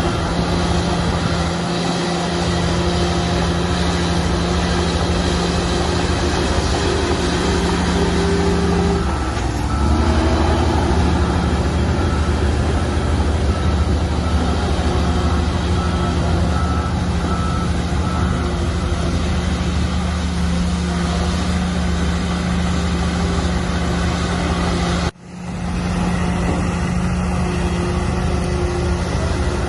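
Shantui bulldozer's diesel engine running steadily under work, its note shifting about nine seconds in. A faint repeating beep, like a reversing alarm, sounds for several seconds in the middle, and the sound drops out for a moment near the end.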